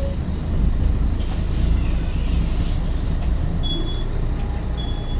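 Scania L113CRL bus's rear-mounted diesel engine running with a deep rumble, an air hiss a little over a second in, and two short high beeps near the end.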